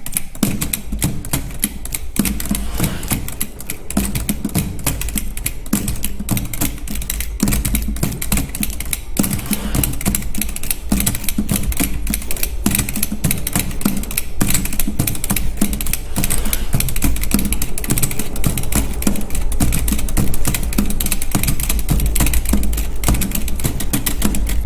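Rhythmic percussion piece made from bag-making workshop sounds: dense, rapid mechanical clicking, like typing, over a steady low hum. It grows gradually louder.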